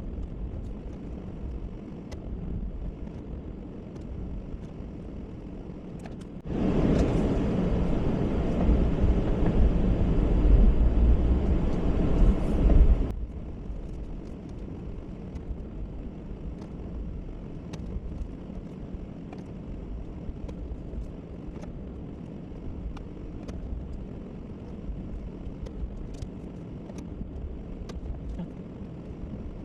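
Plow truck's engine running steadily, with one much louder burst of rushing noise lasting about six seconds that starts and stops abruptly about a quarter of the way in.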